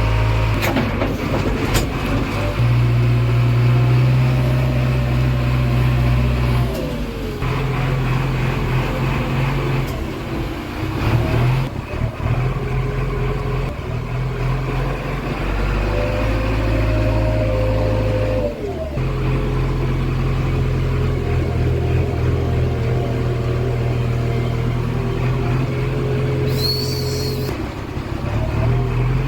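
Heavy diesel machine engine running under changing throttle, its note stepping up and down every few seconds, with a whining tone that rises and falls alongside. A short high hiss comes near the end.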